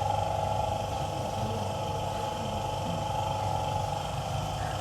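A steady mechanical hum at a constant pitch, from a machine running in the background.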